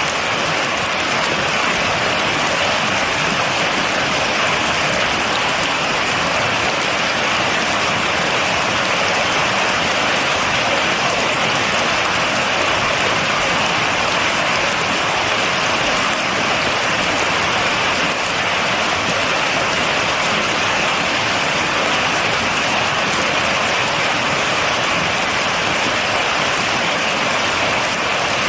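Steady rain falling without thunder, an even hiss with no letup.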